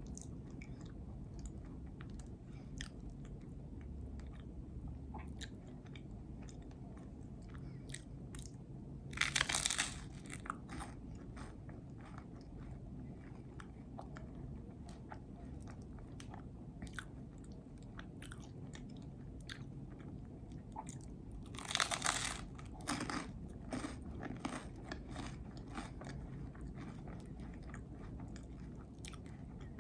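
Close-miked mouth sounds of someone eating a peanut butter and jelly sandwich: two louder bites, about nine seconds in and again about twenty-two seconds in, each followed by a run of small chewing clicks. A steady low hum runs underneath.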